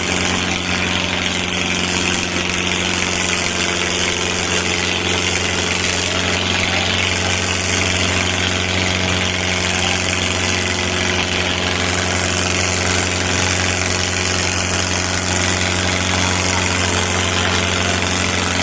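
Diesel tractor engines running steadily, an even drone that holds one pitch without revving up or down.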